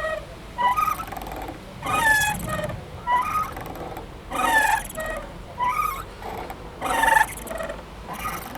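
A playground swing squeaking as it swings: a wavering, gliding squeal that repeats about every 1.2 seconds.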